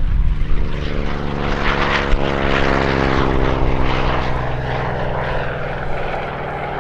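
The radial piston engine of a Goodyear-built Corsair fighter running at a steady, loud drone with many overtones, swelling up about a second in.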